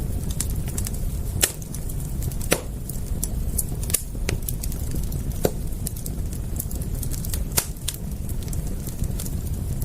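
Wood fire crackling: irregular sharp pops and snaps, a handful of louder ones, over a steady low rumble of burning.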